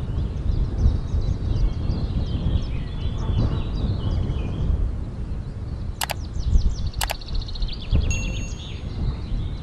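Small birds chirping repeatedly over a steady low rumble. About six and seven seconds in come two sharp clicks, then a short electronic chime.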